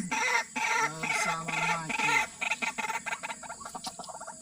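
White-breasted waterhens calling: rapid, clucking, chattering calls with quick clicks, louder in the first half and fading toward the end.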